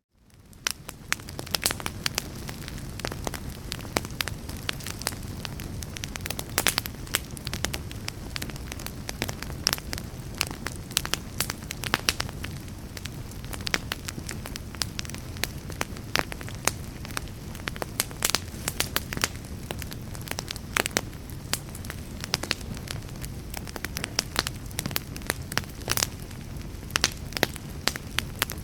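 Fireplace fire crackling: frequent sharp pops and snaps over a steady low rumble of flames, fading in from silence at the start.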